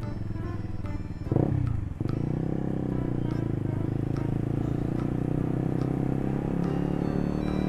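Motorcycle engine running while riding, with a loud, brief sound about a second and a half in that falls steeply in pitch, after which the engine settles to a steady, even note.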